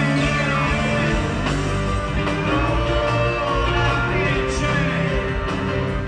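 Rock music with guitars, loud and steady, with pitches that bend up and down.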